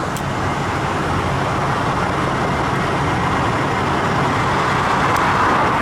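Tow truck on the move: steady engine hum and road noise.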